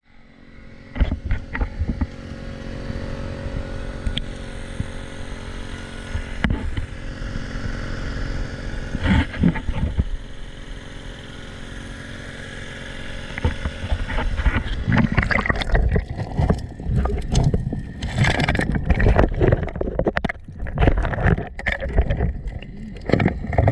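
Small engine of a gold dredge running steadily, with water gurgling. Irregular knocks and clatter come thicker from a little past halfway.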